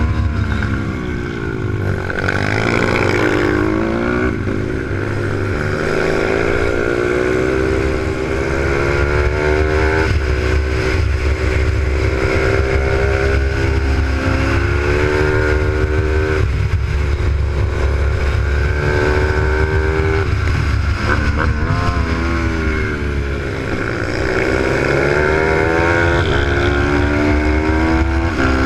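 Single-cylinder four-stroke Z155 pit bike engine at racing speed. It revs up and shifts, then backs off and drops in pitch several times over, as it would between straights and corners.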